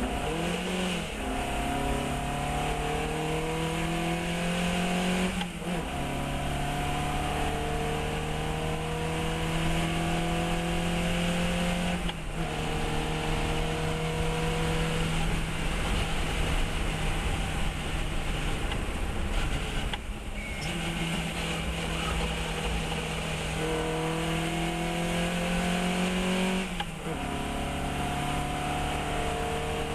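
Fiat 132 race car's engine running hard at high revs, the pitch climbing slowly, broken four times by quick gear changes.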